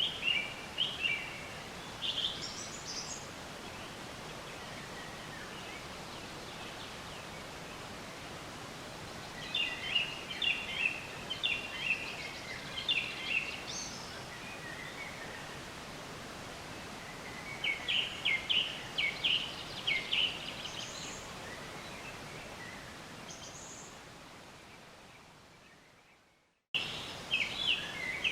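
A songbird singing in phrases of rapid chirps a few seconds apart, over a steady outdoor hiss. Near the end the whole soundscape fades out to silence, then cuts back in with more chirping.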